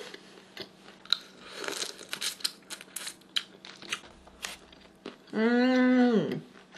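Close mouth sounds of someone eating raw fish: soft wet chewing clicks and smacks, then a hummed "mmm" of enjoyment through a full mouth about five seconds in, lasting about a second.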